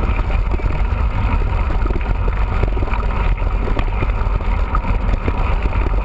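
Mountain bike being ridden: a steady low rumble of wind buffeting the camera microphone, with many small knocks and rattles from the bike throughout.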